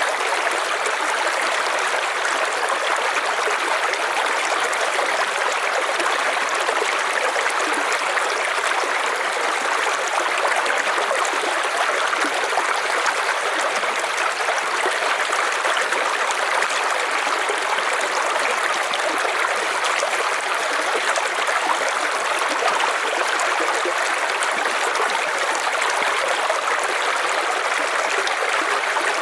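River water flowing and splashing steadily, a constant rushing sound with no changes.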